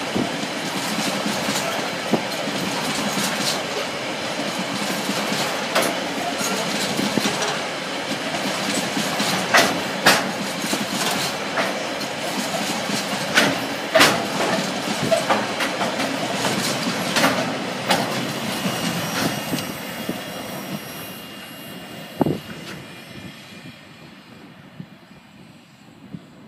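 Freight train wagons rolling past on the rails, wheels clicking sharply over the rail joints amid a steady rumble. The sound fades away over the last few seconds as the tail of the train draws off.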